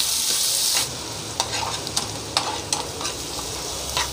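Chopped onion, capsicum and green chilli sautéing in hot oil in a nonstick frying pan, sizzling while a slotted spatula stirs them, with several sharp clicks of the spatula against the pan. The sizzle is loudest for about the first second, then settles to a lower hiss.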